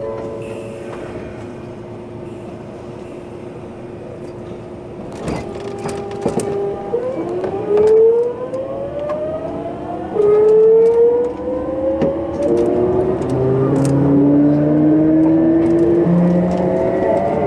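Hitachi GTO-VVVF inverter of a Sotetsu New 7000 series motor car, heard from inside the car as the train pulls away. Steady tones for the first few seconds, a few clicks around five to six seconds in, then from about seven seconds in several whining tones rise in pitch in steps as the train accelerates.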